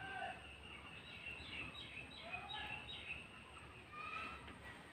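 Birds chirping faintly in the background: a run of short high chirps, with a few lower sliding calls.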